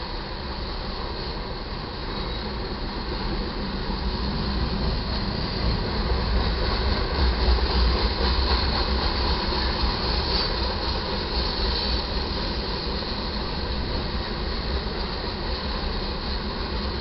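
Loaded freight train rolling past on the main track: a steady rumble and clatter of steel wheels on rail that swells louder about halfway through, then eases.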